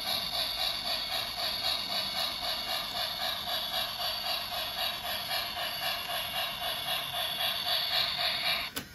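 Battery-powered toy locomotive running, its small motor and gears whirring with an even, rhythmic ticking of a few beats a second; it stops abruptly with a click near the end.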